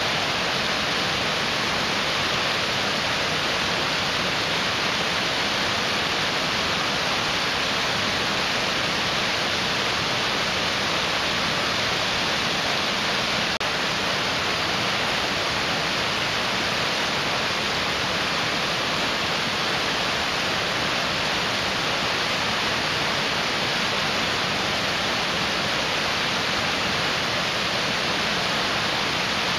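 Mountain stream rushing, a steady, even rush of water.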